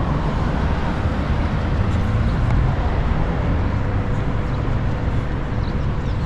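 Steady rumble of road traffic on a city street, with a faint steady hum.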